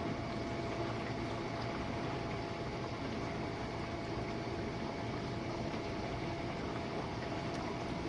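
Jenn-Air dishwasher running a Quick Wash cycle: water spraying steadily inside the tub over a constant pump hum with a faint steady tone.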